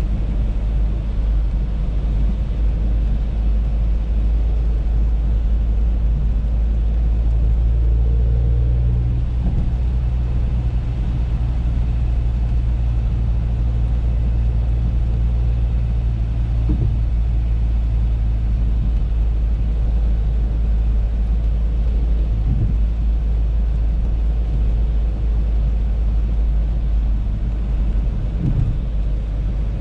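Audi A3 on the move: a steady low rumble of engine and road noise, with a few faint knocks about halfway through and again near the end.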